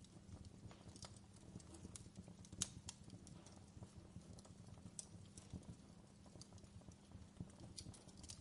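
Fireplace fire crackling softly: irregular sharp pops and snaps over a low steady hum, with one louder pop about two and a half seconds in.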